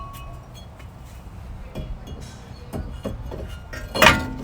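Metal tools and car parts clinking as they are handled, a few light clinks followed by one loud metal clank about four seconds in that rings briefly.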